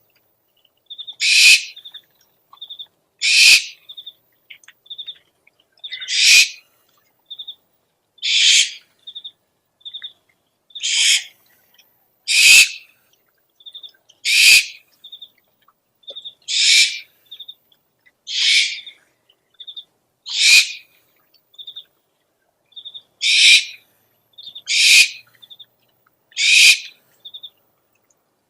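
Owl lure recording: harsh, hissing screech calls about every two seconds, with short high chirping pips in between.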